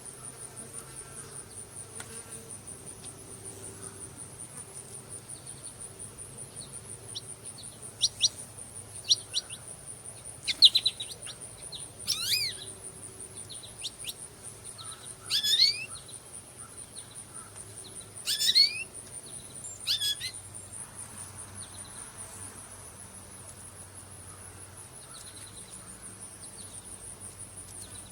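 Insects keep up a steady, high-pitched pulsing trill throughout. Between about 8 and 20 seconds in, a bird gives a run of short, loud sweeping calls, some gliding up and some down in pitch.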